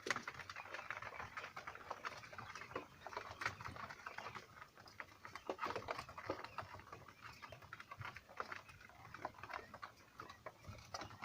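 Five-day-old Texas quail chicks pecking and scurrying on the floor of their box: a quick, irregular pattering of many small taps.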